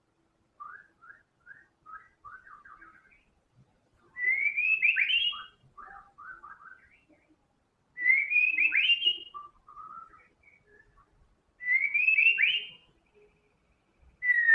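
White-rumped shama singing in full song: a loud, rising whistled phrase about every four seconds, with softer, lower chirping notes between the phrases.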